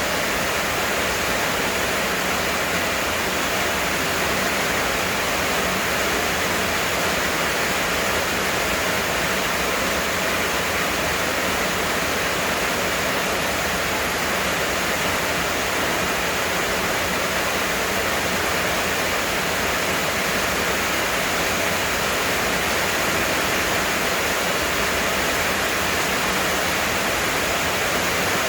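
Heavy rain pouring down, a dense, steady hiss that does not change.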